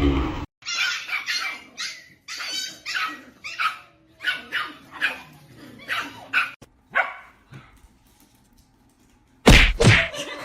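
Dog barking over and over in short, high-pitched barks, about two or three a second, falling silent for a moment before a loud sudden sound near the end.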